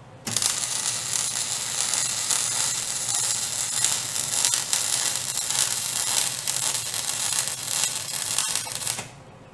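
Wire-feed welder arc crackling steadily while laying a weld; it strikes suddenly and cuts off after about nine seconds.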